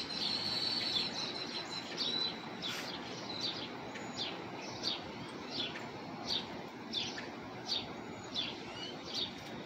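Backyard birds calling: a thin high whistled note near the start, then a steady series of short, high, down-slurred chirps, about one every two-thirds of a second, over a faint outdoor background hiss.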